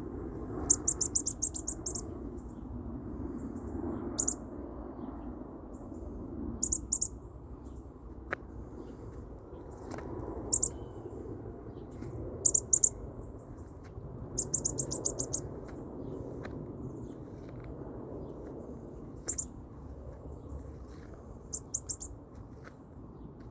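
Baby bird cheeping: bouts of rapid, very high-pitched chirps, each a quick string of short cheeps lasting up to about a second, repeated about eight times with pauses between.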